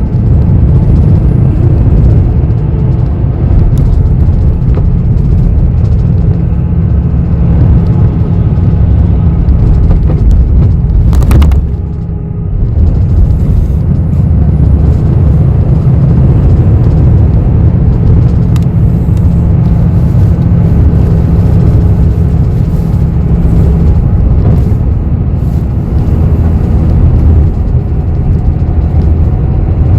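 Cabin noise inside a city bus: a loud, steady low rumble of engine and road noise. About eleven seconds in there is one sharp knock, and the rumble dips briefly just after it.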